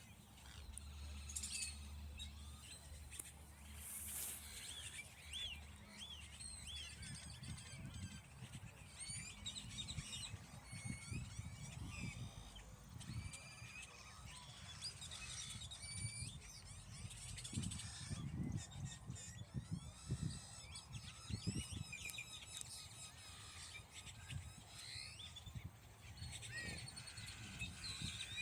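Songbirds chirping and singing: many short, quick, rising and falling chirps from several birds, with a low irregular rumble underneath.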